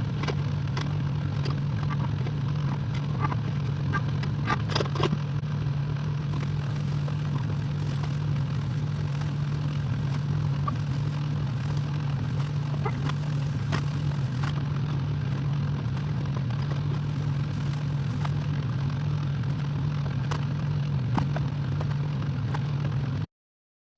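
Excavator engine running at a steady drone, with scattered clanks and scrapes of the machine at work. The sound cuts out abruptly for a moment near the end.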